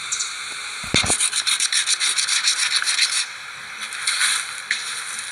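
A low bump about a second in, then fast scraping strokes, about nine a second, for about two seconds, followed by a few quieter scrapes.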